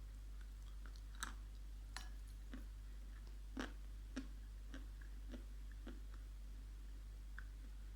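Close-up crunching as dried clay is chewed: a series of short crisp crunches about every half second to a second, the loudest near the middle, over a steady low electrical hum.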